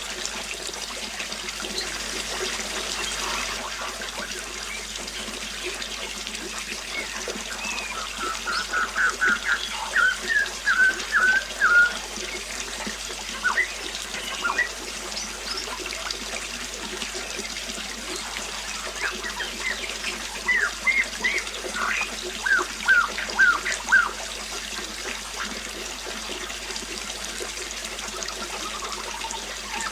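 Water trickling steadily while a songbird sings two runs of quick, repeated chirping notes, one about a third of the way in and another about two-thirds in.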